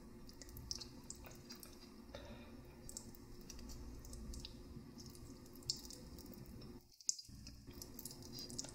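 Close-miked chewing of noodles, with scattered small wet mouth clicks and squishes.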